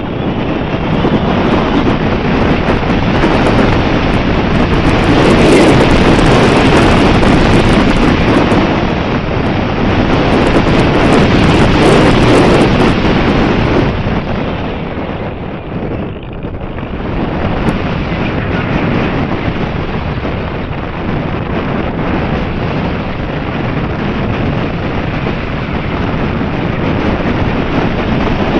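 Strong wind buffeting the microphone in gusts, loudest in the first half and easing briefly a little past the middle.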